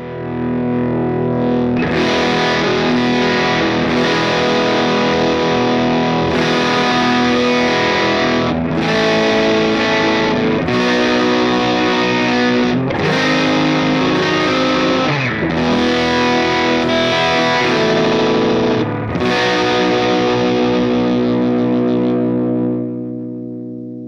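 Electric guitar played through a ProCo RAT distortion pedal modified to 1979 specification: distorted chords strummed and held, changing about every two seconds. It builds up over the first two seconds and fades out near the end.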